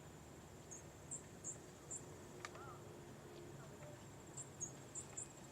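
Faint insects chirping: short high chirps repeating irregularly over a steady high-pitched trill, with a faint low hum underneath.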